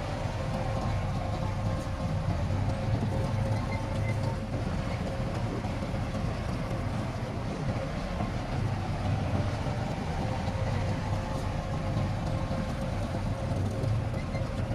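Heavy diesel earthmoving machinery running steadily under load: a continuous low rumble with a faint steady whine above it.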